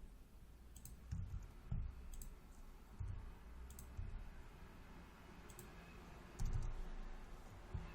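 Computer keyboard being typed on in scattered, irregular key clicks, with dull low thuds.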